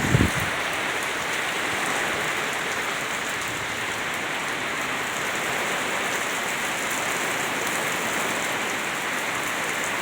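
Heavy rain from a thunderstorm pouring down steadily, an even rushing hiss.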